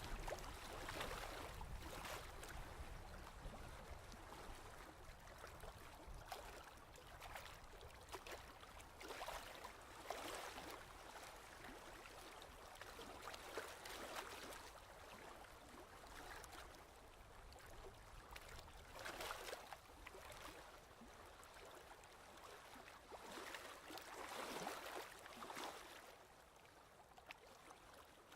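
Faint ocean waves washing in, a steady hiss that swells and falls back every few seconds.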